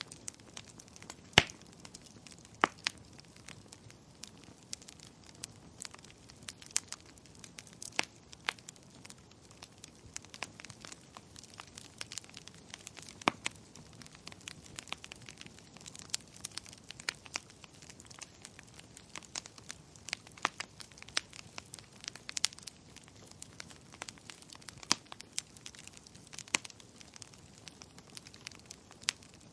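Fireplace fire crackling: irregular sharp pops and snaps of varying loudness, a strong one about a second and a half in, over a soft steady hiss.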